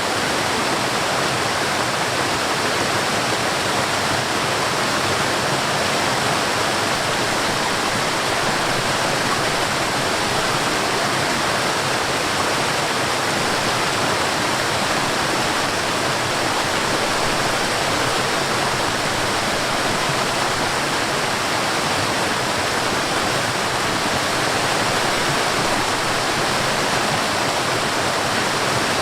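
Mountain stream and waterfall rushing steadily: an even, unbroken rush of water with no changes.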